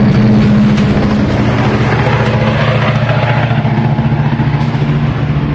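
Metra commuter train's diesel locomotive running, a steady low engine hum, over the rushing rumble of the moving train, which eases slightly near the end.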